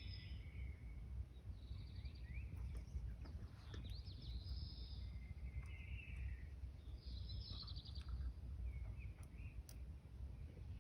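Birds chirping in short bursts every second or two, over a steady low rumble of background noise.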